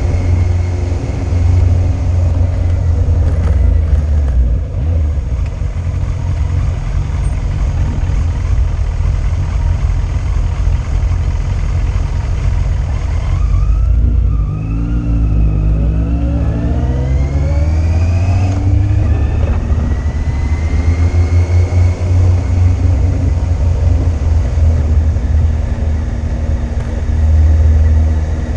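Yamaha Fazer 600's inline-four engine on the move under a heavy low rumble of wind on a bike-mounted camera. About halfway through the engine note climbs in pitch in several steps as the bike accelerates through the gears.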